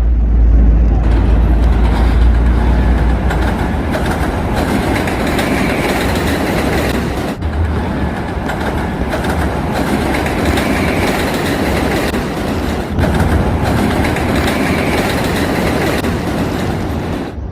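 Train running along the track, a steady rumble with wheel clickety-clack, loudest in the first few seconds and breaking off sharply twice before carrying straight on.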